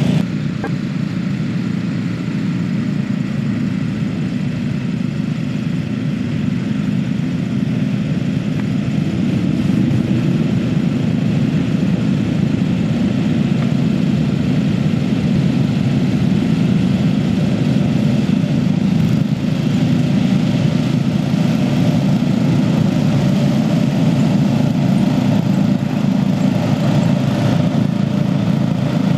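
Riding lawn mower engine running steadily, growing a little louder after about ten seconds.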